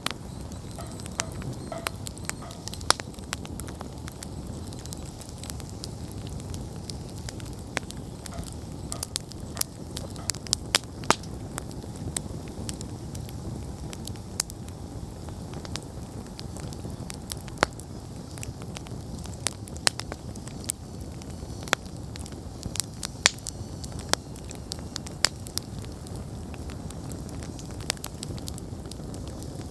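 Wood campfire burning, a steady low rushing of flames with frequent sharp, irregular crackles and pops from the burning wood.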